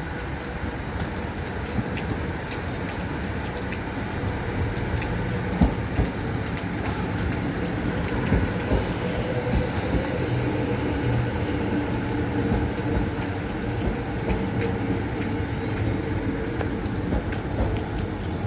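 X'Trapolis 100 electric multiple-unit train running on the track: a steady rumble with faint steady tones and scattered sharp clicks of wheels over rail joints.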